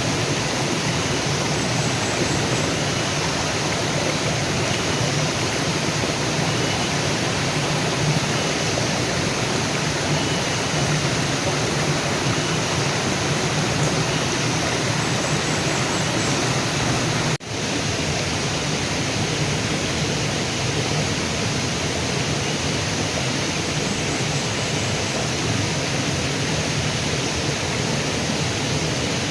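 River water rushing steadily, an even wash of noise, with a brief break about two-thirds of the way through.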